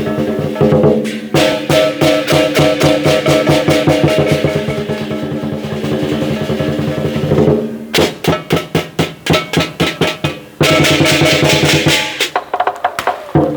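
Chinese lion dance percussion ensemble playing: a big drum beaten in fast, dense strokes under ringing cymbals and gong. About eight seconds in the beat breaks into separate, spaced hits, then rolls back into fast playing a couple of seconds later.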